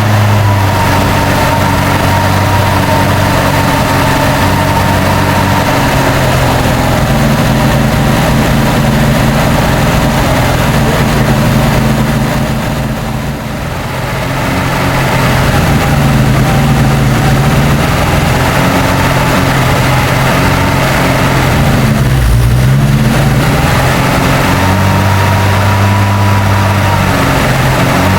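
A 1966 Morris Cooper S's freshly rebuilt A-series four-cylinder engine running at a high idle during its run-in. The idle is hunting: the engine speed sags about halfway through, and again briefly later, then picks back up.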